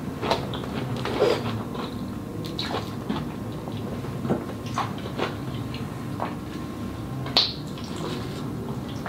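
Close-up eating sounds from a bite of an Impossible Whopper plant-based burger: wet chewing and lip smacks in irregular short clicks, with fingers being licked clean near the end.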